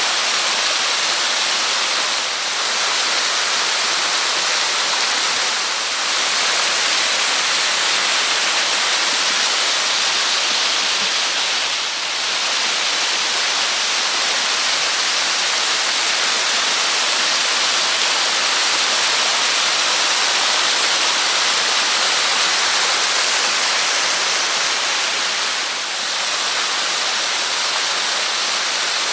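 Small waterfall, about 6 m high, with its water rushing and splashing in a steady, loud hiss. The level dips slightly a few times.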